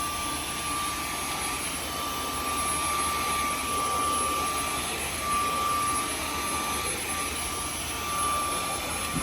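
Dyson vacuum cleaner with a dog-grooming attachment running steadily, drawing loose undercoat from a German Shepherd's fur: a steady rush of air with a high, constant whine.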